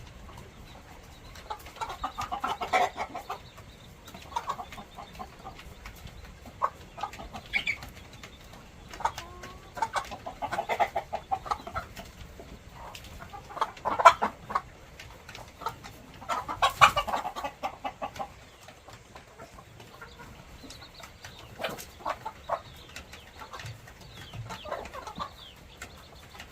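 Chickens clucking in a coop, in several short bouts of rapid clucks, with small scattered clicks between them.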